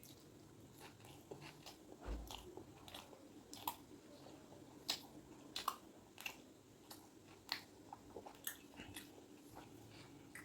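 A person chewing and biting food close to the microphone: irregular, sharp, crunchy and wet mouth clicks, a few a second.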